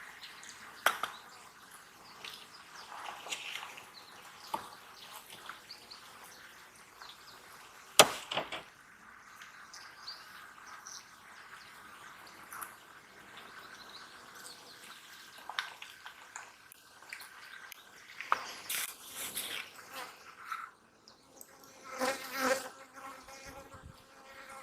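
Honey bees buzzing steadily around an open hive, with a few sharp knocks, the loudest about eight seconds in, and some clattering near the end.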